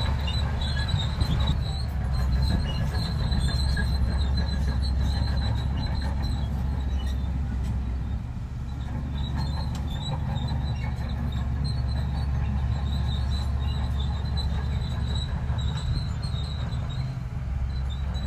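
Bulldozer working: a steady low diesel rumble with the clatter of steel tracks and a thin high squeal from the track running gear, easing slightly about halfway through.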